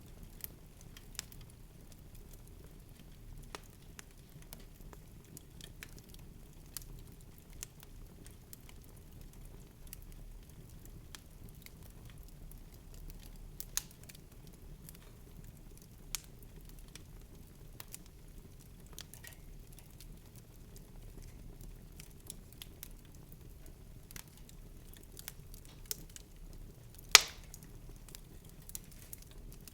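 Scattered small clicks and taps over a steady low hum, with one sharper, louder knock near the end.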